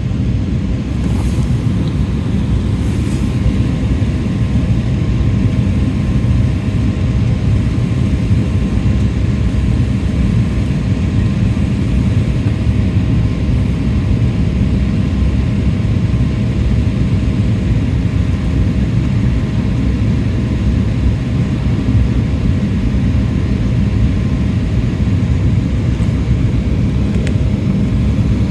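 Jet airliner cabin noise in flight: a steady low rumble of engines and airflow, with faint steady tones above it.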